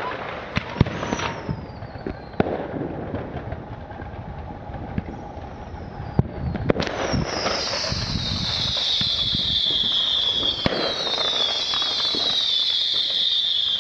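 Fireworks display: sharp bangs of bursting shells, then from about seven seconds in a string of overlapping whistling fireworks, each whistle falling in pitch, with more bangs between.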